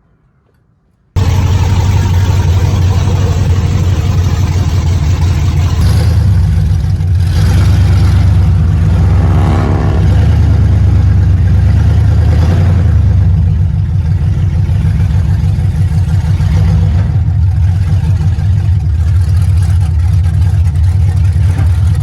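A truck's engine running loud, with a deep low rumble that cuts in suddenly about a second in and holds steady, swelling a little in the middle.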